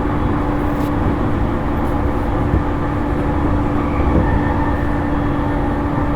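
JR East E231-series electric multiple unit running at a steady speed, heard inside a motor car: continuous rumble of wheels on rail with a steady hum.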